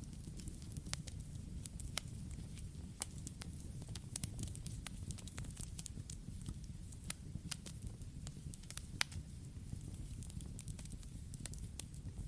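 Campfire burning: a steady low rumble of flames with frequent sharp crackles and pops, irregular, several a second, one louder pop about nine seconds in.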